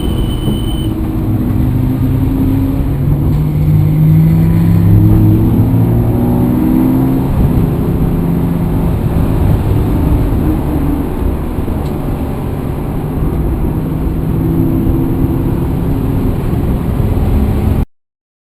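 A motor vehicle's engine running with a heavy low rumble, rising in pitch as it accelerates a few seconds in, then settling to a steady run. The sound cuts off suddenly near the end.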